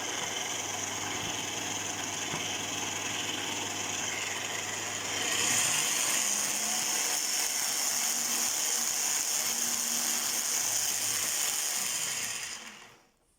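Kenwood kitchen machine's motor and gearbox running with the drive belt refitted. It gets louder about five seconds in and stops shortly before the end. It is making the extraneous noise of a gearbox with loose cover screws and worn teeth on its planetary and bevel gears.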